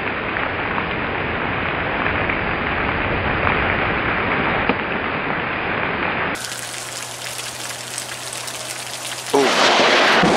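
Heavy rain pouring steadily in a thunderstorm. About six seconds in the sound cuts to a quieter stretch of rain with a low steady hum, and near the end it jumps much louder.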